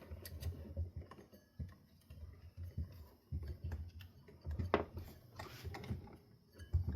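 Small metal parts of a ceiling-fan light kit being handled while a nut is taken off: scattered light clicks and taps, with one sharper click near the middle.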